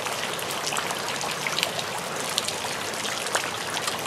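Steady rain falling, with many small sharp ticks of drops striking nearby surfaces.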